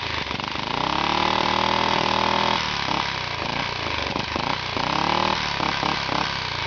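Small Honda 2.5 hp single-cylinder engine revved up and held high for about two seconds, then falling back to an uneven idle, followed by a second, shorter burst of revs.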